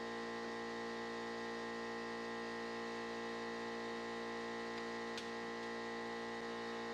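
A steady machine hum made of several fixed tones, even and unchanging.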